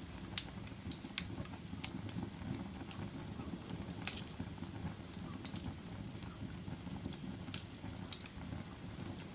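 Fire crackling: a steady low rumble of flames with sharp pops and snaps at irregular intervals, the loudest about half a second in and about four seconds in.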